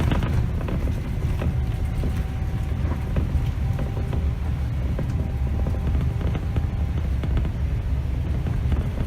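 2008 Scania K270 city bus driving, heard from the driver's seat: a steady low rumble of its rear-mounted diesel engine and the road, with light rattles and clicks throughout.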